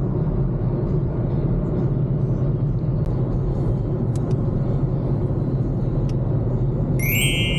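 Steady low rumble of a car driving: engine and tyre noise on the road. About seven seconds in, music with sustained tones comes in over it.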